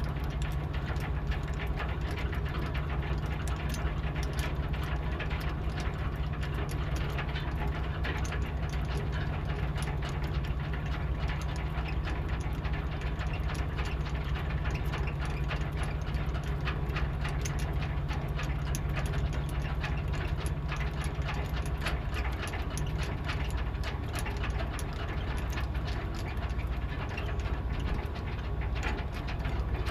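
Boat engine running steadily, a low drone with rattling on top; the drone's tone changes slightly about 22 seconds in.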